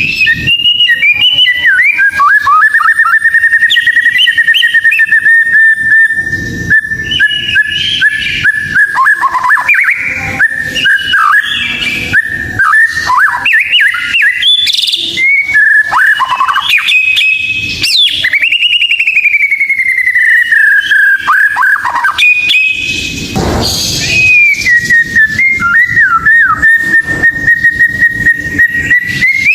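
White-rumped shama (murai batu) singing: loud, clear whistled notes held near one pitch for several seconds at a time, broken by quick warbles and gliding phrases. A brief harsh, noisy note comes a little past two-thirds through.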